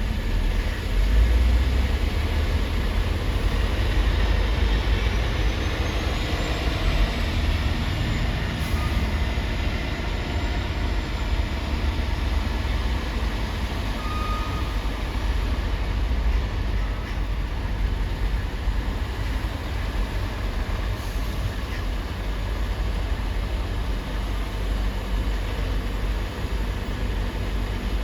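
Steady low rumble of heavy trucks running, a little louder about a second in.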